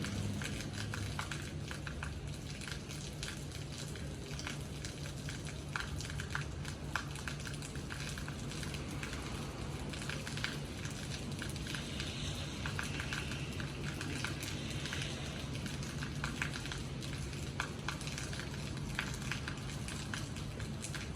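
Steady rain: an even hiss of falling rain with scattered sharp clicks of drops striking surfaces, over a constant low hum.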